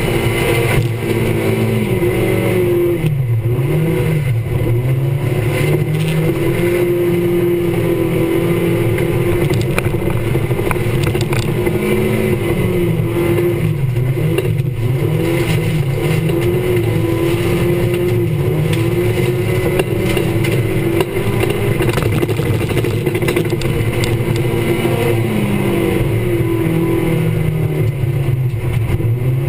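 Autocross race car's engine heard from inside the cockpit, running hard at full race pace. Its note climbs and drops over and over as the car accelerates and lifts through the corners.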